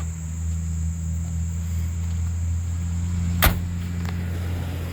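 Power door lock actuators of a 1990 Jeep Grand Wagoneer working, with one sharp clack about three and a half seconds in, over a steady low hum.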